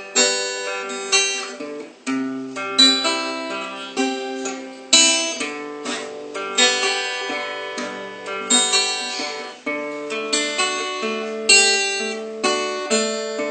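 Instrumental intro of a hymn played on a plucked string instrument: chords struck about once a second, each ringing and fading, with no singing yet.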